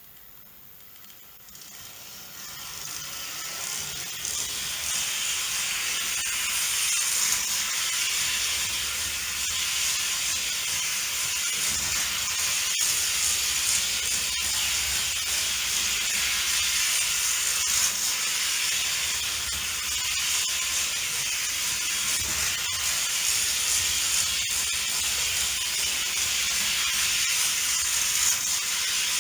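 Märklin HO model freight train running on C Track: a steady rushing rolling noise with a low rumble underneath, building up over the first few seconds, with a few sharp clicks along the way.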